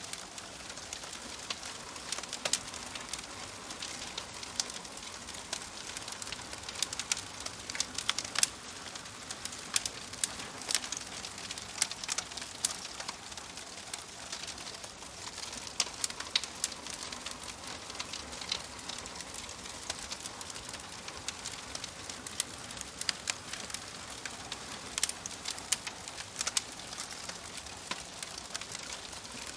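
Wood fire crackling and popping in a fireplace: a steady soft hiss with frequent sharp, irregular pops.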